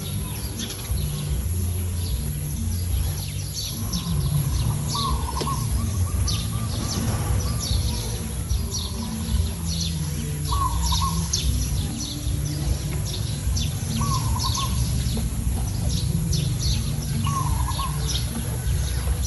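Birds chirping: many short high chirps, with a short lower call repeated about every three to four seconds, over a steady low rumble.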